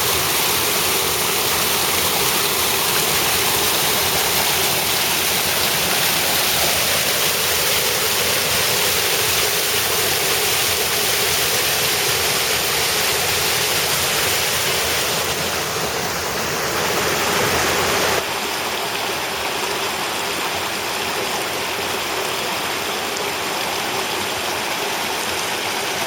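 Creek water rushing steadily. The sound drops a little and changes abruptly about eighteen seconds in.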